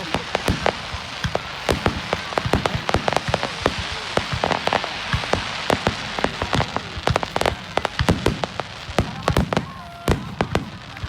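Fireworks display: a dense, irregular run of sharp bangs and crackles over a steady rain-like hiss from crackling shells.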